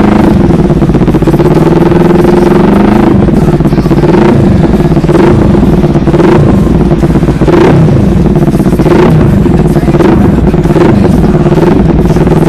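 Motorcycle engine running loud, with repeated throttle blips that rise and fall in pitch about once a second.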